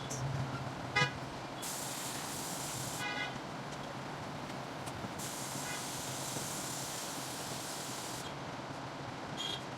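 Steady street traffic noise with short vehicle horn toots about a second in, around three seconds in and near the end, and two long stretches of high hiss.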